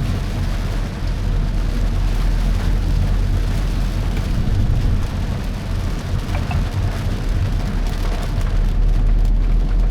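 Rain pattering on a moving car over a steady low rumble of tyres and engine, heard from inside the cabin.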